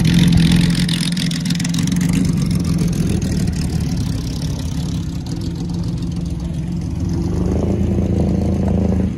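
Jaguar D-type's straight-six racing engine idling, a loud, steady low drone. Near the end a second car's engine joins in.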